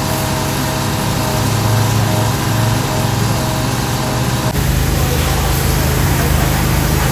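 A motor running steadily with a constant pitch. About four and a half seconds in it cuts to a similar steady hum with a heavier low end.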